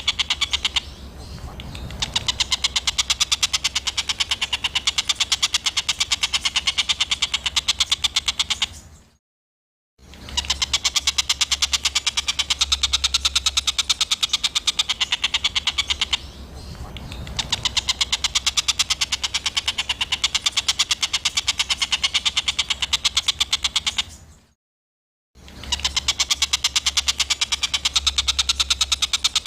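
Looped recording of a small songbird's harsh, rapid-fire chattering burst, a dense run of scratchy notes used as a 'tembakan kasar' training track. It cuts to silence for about a second twice, about nine seconds in and near the end, then starts again.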